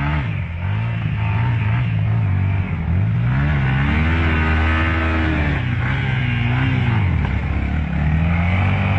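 Yamaha Y15ZR motorcycle engine revving under load, its pitch climbing about three seconds in, easing back around seven seconds, then rising again near the end.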